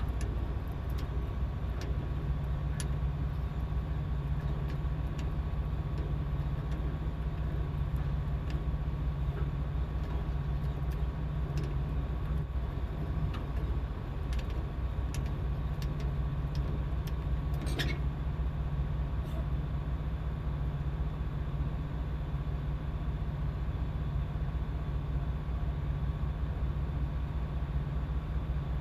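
Boat engine running with a steady low drone, a faint steady whine above it, and a few light clicks about two-thirds of the way through.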